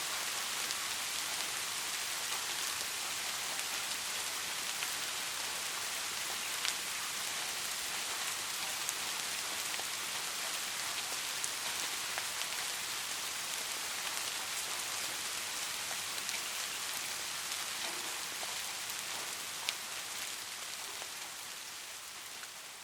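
Steady rain falling, a dense even hiss with scattered sharper ticks of individual drops. It starts to fade away near the end.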